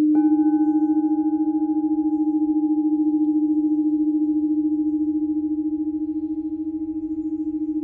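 Crystal singing bowls ringing: a low bowl holds a steady tone with a fast pulsing beat, and a higher bowl is struck just after the start and rings on alongside it.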